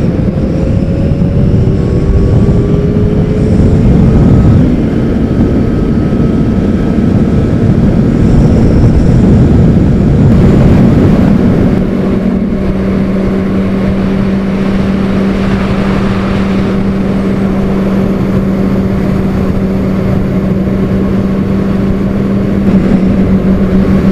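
Honda CBR600RR's inline-four engine accelerating, its pitch rising through the gears over loud wind rush, then settling about halfway into a steady cruising note.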